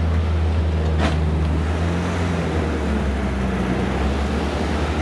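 Suzuki 4x4's engine running steadily at low revs as it reverses slowly, with a single sharp knock about a second in.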